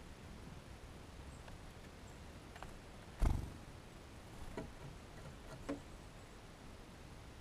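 A dull thump about three seconds in, then a few faint taps and clicks, from small birds landing and pecking at a feeder, over a low steady background.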